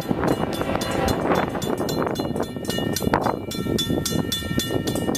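Rumble of an approaching train, mixed with wind noise on the microphone.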